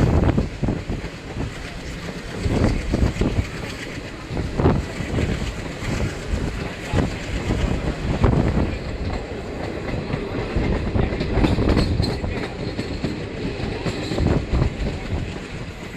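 A train running on its track, its wheels clattering in uneven knocks over the rail joints above a steady rolling rumble.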